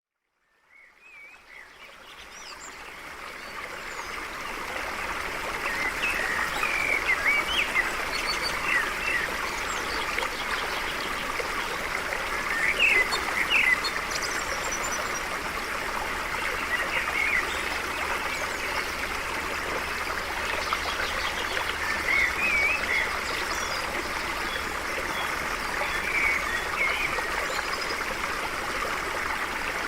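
A stream flowing steadily, with birds chirping over the running water. The sound fades in over the first few seconds.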